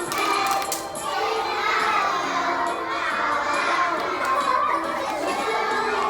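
Many young children shouting and chattering at once, their voices overlapping into a continuous din.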